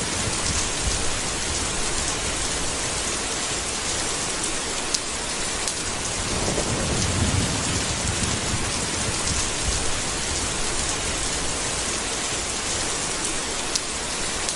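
Steady heavy rain hissing, with a low rumble of thunder that swells and fades about halfway through. A few sharp drip clicks stand out on top.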